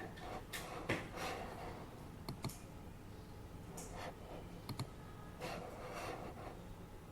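Irregular, sparse clicks of a computer keyboard with a few short handling scuffs at a desk, over the steady low hum of an air purifier.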